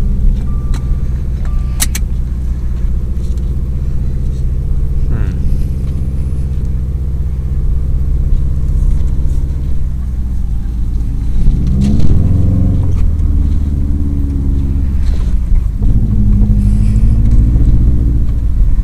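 Subaru WRX STI's turbocharged flat-four engine running steadily at low revs, heard from inside the cabin, with the revs rising around twelve seconds in and again near the end. At the start a seatbelt warning chime beeps a few times and stops with the click of the belt being buckled.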